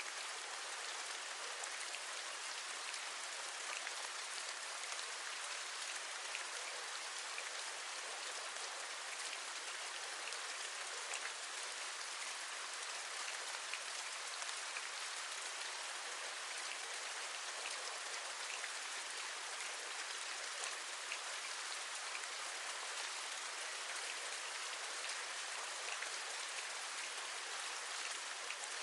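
Steady rain falling, with many small drops ticking as they tap a window ledge.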